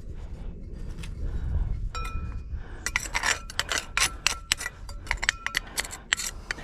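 A steady low rumble of the running crucible furnace's burner, with hard objects clinking and scraping from about two seconds in, one briefly ringing, then a quick run of sharp clinks.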